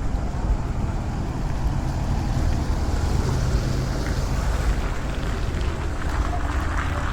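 Steady low rumble of a truck engine running, with wind buffeting the microphone.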